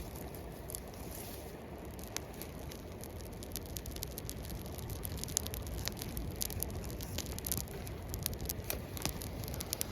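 Wood fire crackling, with frequent sharp pops that come thicker after about three seconds, over a steady low rumble.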